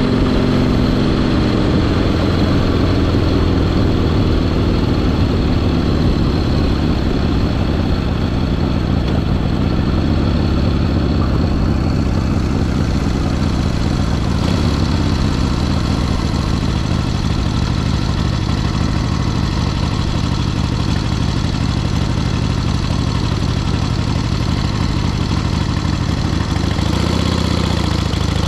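1974 Harley-Davidson Sportster XLH's Ironhead air-cooled V-twin running steadily under way. Its pitch falls and rises several times as the rider eases off and accelerates, with a dip and rise near the end.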